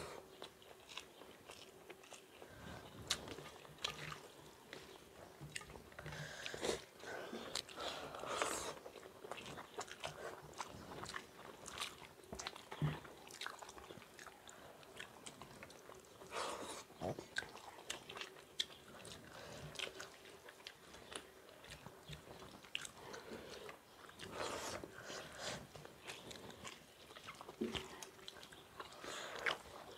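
Two people chewing mouthfuls of rice and egg bhurji eaten by hand, with irregular wet smacks and clicks throughout.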